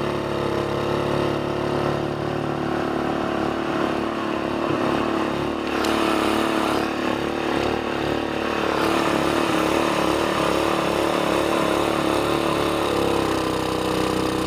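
Mud motor's small gas engine running steadily through a short straight exhaust pipe with a muffler, its pitch wavering slightly and getting a little louder from about six seconds in.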